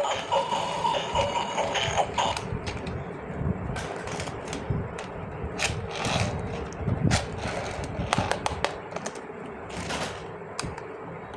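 Plastic toy pieces and packaging being handled, with many separate sharp clicks and taps. A short electronic tune stops about two seconds in.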